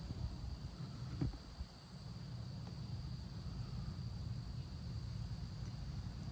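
Steady high-pitched insect trilling, two unbroken tones, over a low outdoor rumble, with one sharp knock a little over a second in.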